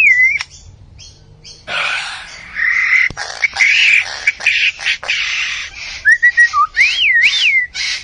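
A mimicking bird giving a varied run of sounds. Whistled notes glide up and down in pitch, then comes a stretch of noisy, rasping calls with a few sharp clicks, and more gliding whistles near the end.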